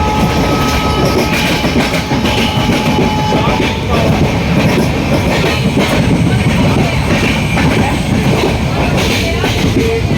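Passenger train running along the track, heard from on board: a loud steady rumble with the clatter of wheels on the rails. A faint high whine runs under it and stops a few seconds in.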